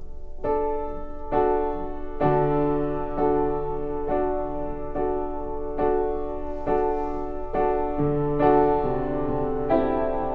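Piano-style keyboard played slowly, a chord struck about once a second, with a low bass note held under some chords. The chord changes near the end.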